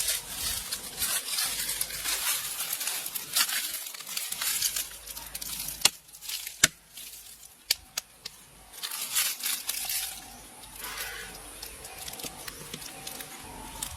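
Rustling, tearing handling noise in uneven spells, with a few sharp clicks about six to eight seconds in.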